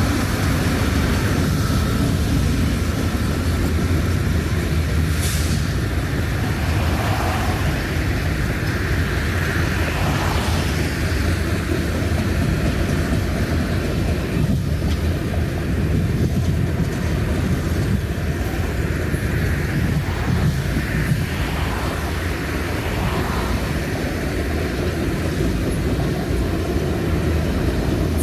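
A train rolling by with a steady low rumble.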